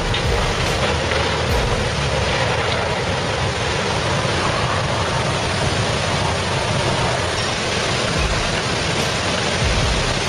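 Turbid flash-flood water rushing, a steady dense wash of noise with no pauses.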